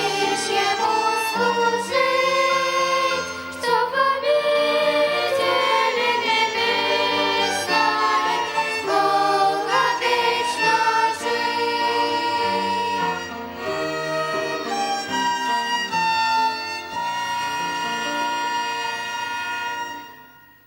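Violin ensemble playing the closing bars of a hymn tune, with notes changing for most of the time and then a long held chord that fades away just before the end.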